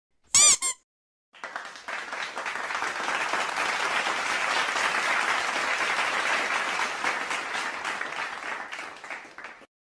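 Applause sound effect: a crowd clapping steadily for about eight seconds, then fading out. Just before it there is a brief high pitched chirp.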